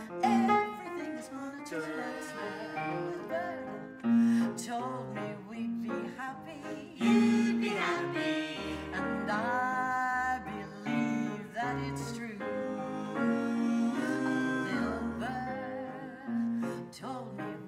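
Music from a live band: a song played on guitar with other instruments, mostly an instrumental passage, with some singing heard in places.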